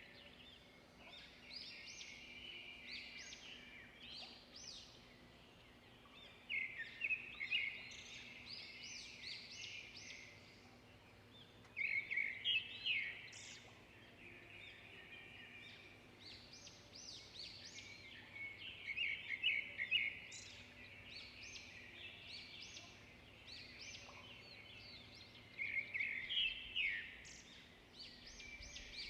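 Songbirds singing: steady softer twittering, with a louder rapid run of notes coming back about every six or seven seconds.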